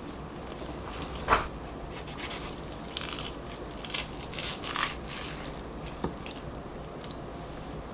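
Kitchen handling sounds: a sharp knock about a second in, then a few seconds of short scraping and rustling noises and a single click, over a steady low hum.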